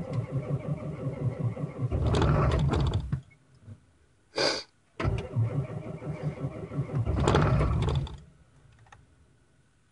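2000 Ford 7.3 Powerstroke turbo-diesel V8 being cranked by its starter in two goes of about three seconds each, with a brief noise in the pause between, not yet catching. It is a cold start at 19°F with no block heater, just after the glow plugs have cycled.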